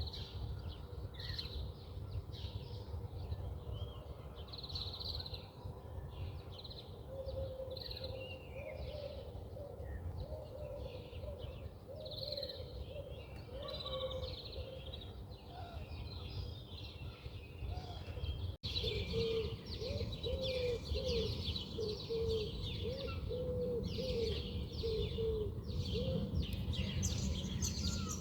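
Several birds chirping and twittering, with a lower-pitched call of quick repeated notes heard in two long runs, over a steady low background rumble.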